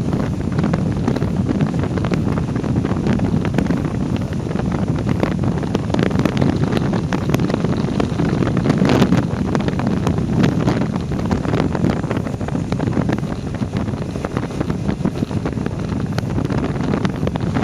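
Heavy wind buffeting the microphone of a riding motorcycle's camera: a steady low rumble with frequent crackles, and no clear engine note coming through.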